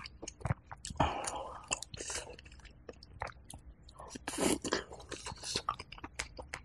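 Close-miked chewing of chicken porridge with crispy rice crust: many irregular small wet clicks of the mouth, with louder mouthfuls about a second in and again at about four and a half seconds.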